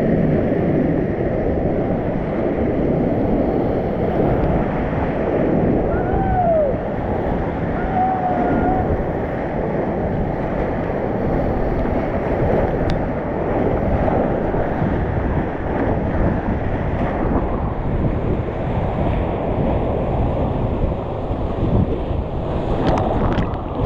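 High-water whitewater rapids rushing in a loud, steady noise, with wind buffeting the microphone.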